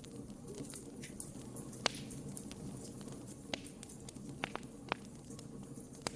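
Wood fire burning in a fireplace, crackling with scattered sharp pops, the loudest a little under two seconds in, over a low steady rumble of the flames.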